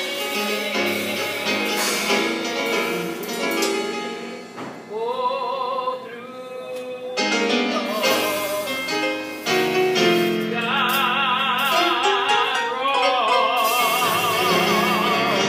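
Music: a solo singer holding long notes with wide vibrato over a keyboard accompaniment.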